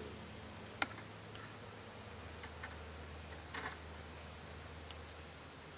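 Honeybees buzzing around an opened colony, with a few sharp clicks and taps from handling the hive, the loudest about a second in.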